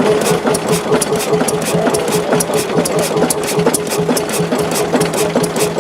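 Diesel engine running steadily at idle, with a fast, even beat over a constant hum.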